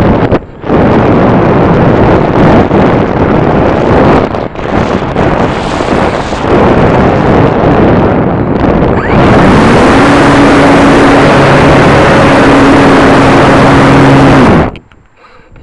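Heavy wind buffeting on the microphone of a camera on a flying RC combat model plane. From about nine seconds a steady motor hum runs under the wind, then the sound cuts off sharply near the end.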